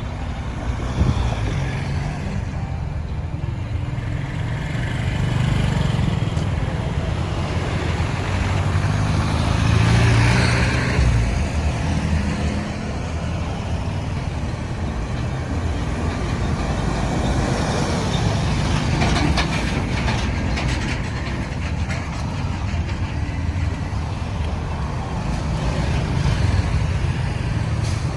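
Road traffic: the low rumble of vehicle engines and tyres, swelling twice as vehicles pass close by.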